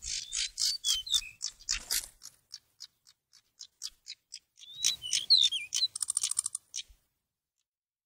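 Magpie-robin giving rapid, harsh rasping calls, about four a second at first and then sparser, with a few whistled notes mixed in. A second flurry of harsh calls and whistles comes about five seconds in and ends in a short buzzy rattle; the calling stops about seven seconds in.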